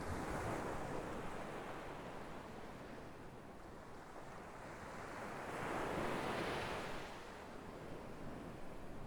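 Sea waves surging in and fading, with two swells of surf: one right at the start and another about six seconds in.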